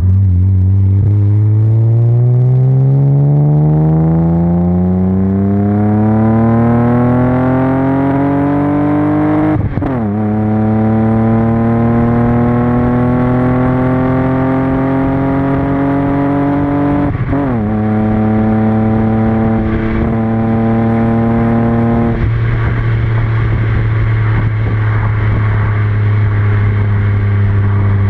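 1999 BMW 323ti's M52B25 2.5-litre inline six, through a Magnaflow muffler, accelerating hard: the exhaust note rises steadily for about nine seconds, drops with an upshift, rises again and drops with a second upshift. After that it holds steady, then falls to a lower, even note as the throttle eases off about two-thirds of the way in.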